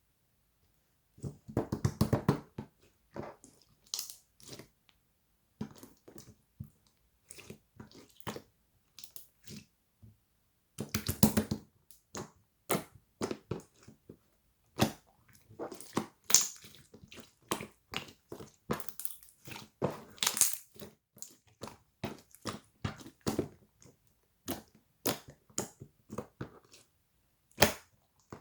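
A dog chewing and biting crunchy food: irregular crisp crunches, some in quick clusters, with short pauses between bites.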